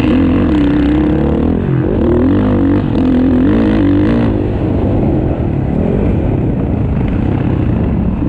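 Motocross bike engines racing on the track: one engine is loud and revs down and back up in the first half, then fades into a steadier, more distant drone of bikes.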